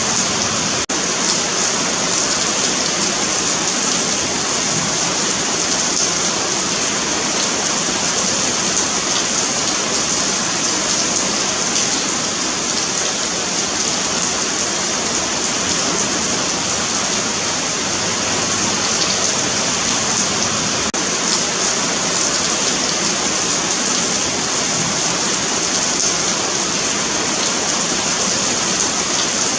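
Steady rain falling on a paved sidewalk: an even, continuous hiss of drops spattering on the pavement.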